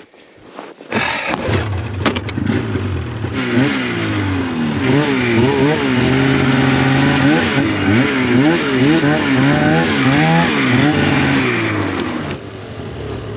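Snowmobile engine starting up about a second in and running hard through deep snow, its pitch rising and falling again and again as the throttle works on and off. It drops off a little before the end.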